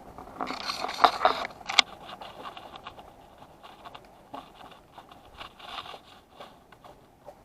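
Metal tools and parts being handled: a burst of scraping and clinking with two sharp clicks in the first two seconds, then scattered light taps and ticks.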